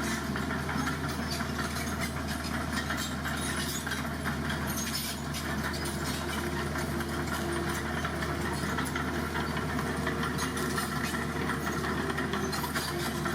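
Heavy truck's diesel engine running steadily at idle, with a light rattle.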